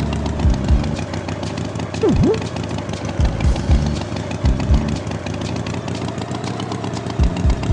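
Cartoon tractor engine running steadily, with several low thumps. A short falling-then-rising swoop sounds about two seconds in.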